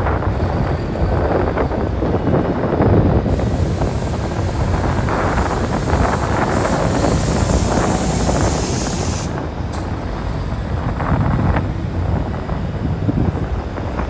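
Heavy cargo vehicles running as they unload from a car ferry, a dense, steady engine rumble with wind on the microphone. A high hiss comes in about three seconds in and stops near the nine-second mark.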